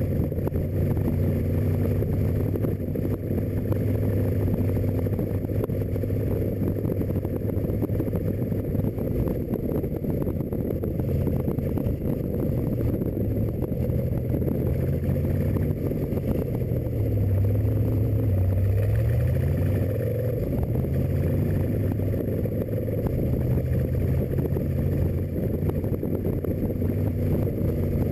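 Rat rod engine with a home-built intake and Stromberg carburettors, cruising at a steady speed. About two-thirds of the way through, its note drops and then climbs again.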